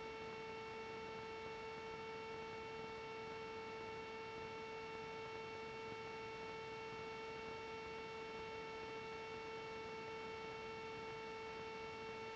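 A faint, steady hum at one unchanging pitch with a row of overtones, starting and stopping abruptly, with no engine or cabin noise under it.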